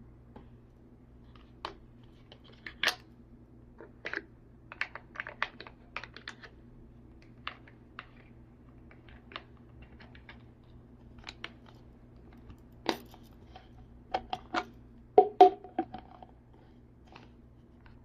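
Small plastic toy pieces being handled: irregular light clicks and taps, with a quick cluster of louder knocks near the end.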